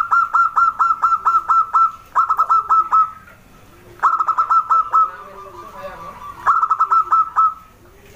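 Zebra dove (perkutut) singing: four quick runs of short staccato cooing notes, about seven a second, with brief pauses between the runs.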